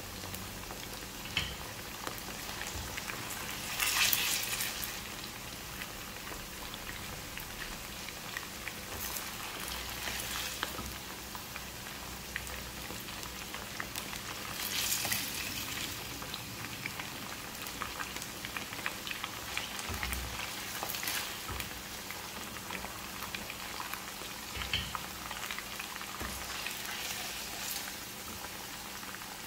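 Cornflour-coated chicken pieces frying in hot oil in a pan: a steady crackling sizzle that swells louder a few times, most at about four seconds and again at fifteen seconds in.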